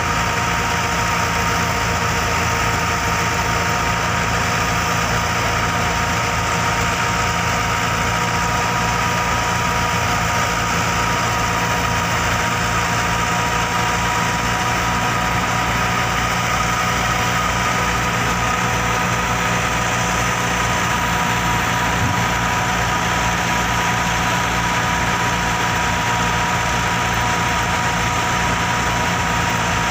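Massey Ferguson 385 tractor's four-cylinder diesel engine running steadily at an even, unchanging speed, like an idle.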